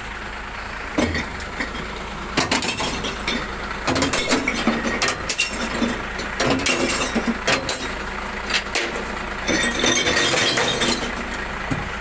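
Glass bottles and jars clinking and crashing as a recycling bin is tipped into a glass collection truck, in a rapid irregular run of sharp clinks, with the truck's engine running underneath.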